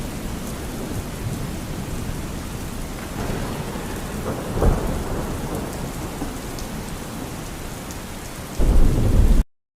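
Steady rain with rumbles of thunder: a short one about halfway through and a louder one near the end, after which the sound cuts off abruptly.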